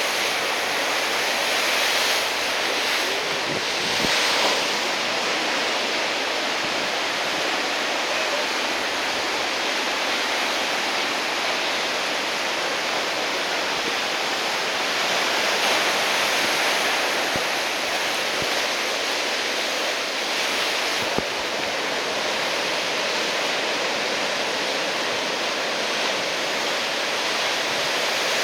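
Heavy surf from a typhoon swell breaking along the shore: a steady wash of crashing waves that swells a few times.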